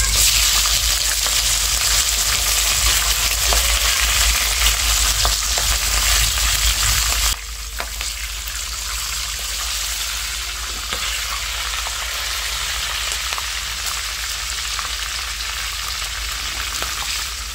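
Halved lobster frying in hot oil in a pan, a steady sizzle that starts as the lobster goes in and drops somewhat in loudness about seven seconds in.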